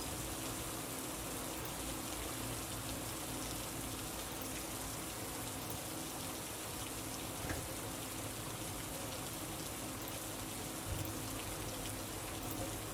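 Steady rain falling, an even hiss, with a couple of small ticks about halfway and near the end.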